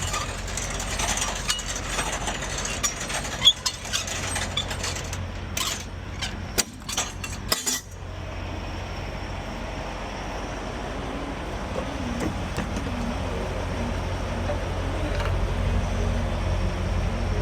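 Truck engine idling with a steady low hum, with metal clinks and knocks during the first half that stop abruptly about eight seconds in.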